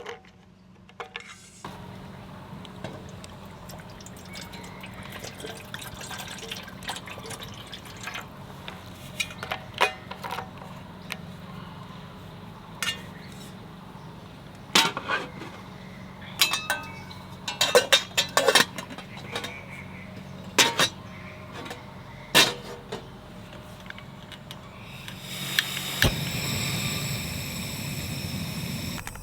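Water being poured while camp coffee gear is handled, with sharp clinks of metal and glass in the middle, over a steady low hum. Near the end a louder rushing hiss sets in for a few seconds.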